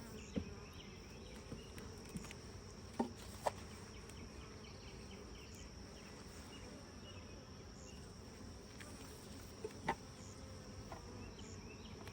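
Honey bees buzzing steadily around an opened hive, with a few short light knocks now and then, twice in quick succession about three seconds in and again near ten seconds.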